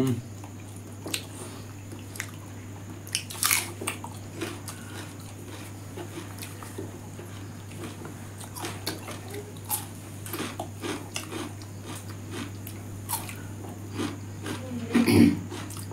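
Close-miked eating: chewing and scattered crisp crunching bites of raw cucumber and fried meat, the loudest crunches about three and a half seconds in and again near the end, over a steady low hum.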